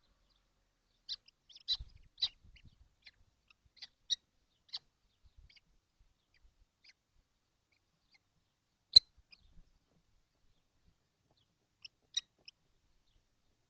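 Kestrel nestlings in a wooden nest box giving short, high chirping calls in scattered bunches. One sharp knock about nine seconds in is the loudest sound.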